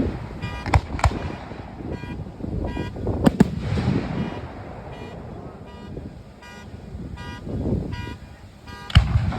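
Fireworks going off: a handful of sharp bursts over a low rumble, several of them close together near the start, a pair about three seconds in and another near the end. Short, steady-pitched honks, like car horns, repeat alongside them.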